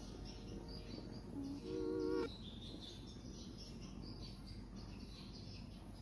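Birds chirping in the background over a steady low hum, with one short, louder pitched tone a little under two seconds in.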